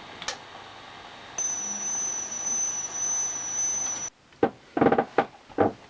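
A steady high-pitched whine, wavering slightly, comes in about a second and a half in and stops abruptly after nearly three seconds. A few short sharp clicks and knocks follow near the end.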